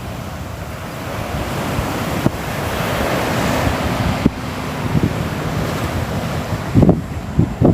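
Sea waves washing on a shore, a steady rushing that swells over the first few seconds. Wind buffets the microphone in a few short low thumps near the end.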